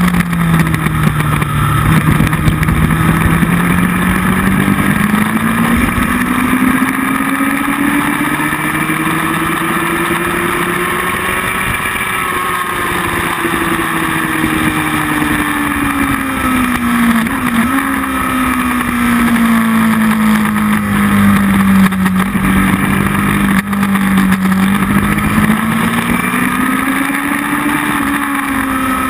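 Motorcycle engine heard from an onboard camera, its revs climbing slowly for about ten seconds and then falling away, then rising again near the end, with a brief dip in pitch about two-thirds of the way through, over a steady rush of wind noise.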